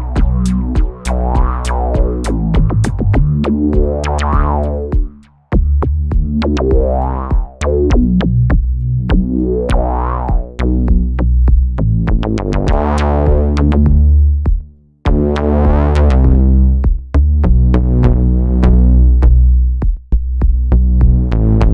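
Analogue synth line played through a Swenigiser Proto VCF/A eurorack filter, its input driven hot for a gritty tone, with the cutoff sweeping open and closed in slow swells about every three seconds. A drum-machine beat ticks along with it, and the sound cuts out briefly twice.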